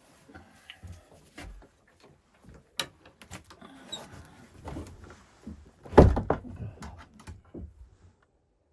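A run of scattered knocks and clicks from objects being handled, with one heavy thump about six seconds in, the loudest sound, ringing on briefly.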